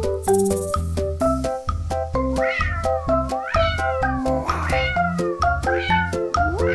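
Cat meows repeated over upbeat background music with a steady beat. Each meow rises then falls in pitch, several times in a row, on the beat.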